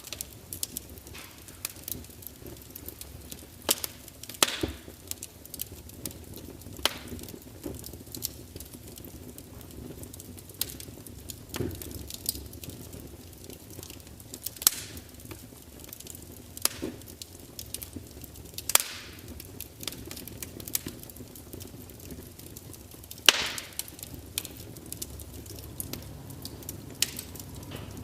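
Log fire in a large open fireplace crackling, with sharp irregular pops and spits from the burning wood over a low, steady sound of the flames. The loudest pop comes about three-quarters of the way through.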